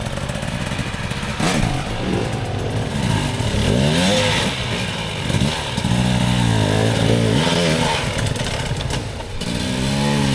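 Dirt bike engine revving hard, its pitch rising and falling again and again as the rider blips the throttle under load climbing a steep, loose hill.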